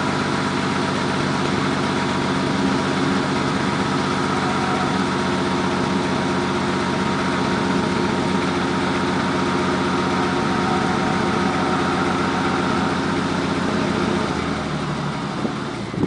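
Chevrolet K30 pickup's 4.3-litre V6 idling steadily while it warms up after a cold start. The sound thins out and drops a little near the end.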